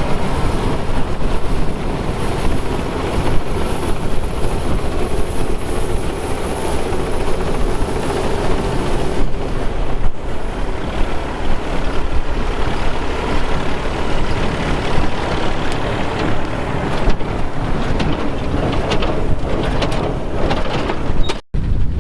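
Vintage harvest machinery running steadily under load, with a sudden break in the sound shortly before the end.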